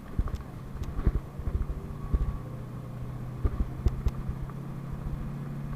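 PAZ-32054 bus heard from inside while driving: a steady low engine hum with many short thumps and rattles from the body and fittings.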